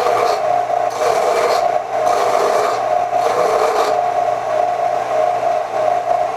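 Electric rotary power tool running steadily while it grinds rust off a steel wrench, the scraping noise swelling and easing as it is pressed against the metal.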